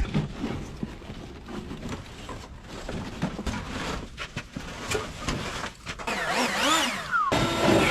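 Scattered clicks, knocks and rustling as items are handled while a car's interior is cleaned out. About six seconds in comes a wavering squeak that rises and falls. After a sudden cut near the end a steady hum sets in.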